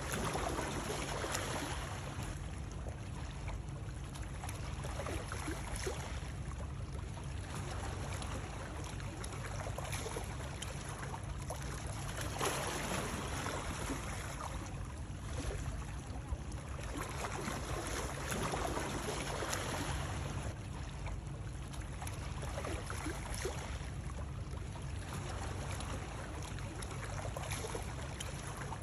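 Steady water noise with a constant low rumble, its splashing swelling and easing every two to three seconds.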